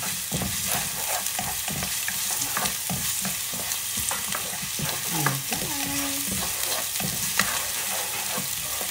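Blended lemongrass, garlic and chili sizzling steadily in hot oil in a non-stick wok, while a ladle stirs and scrapes through it in many short strokes.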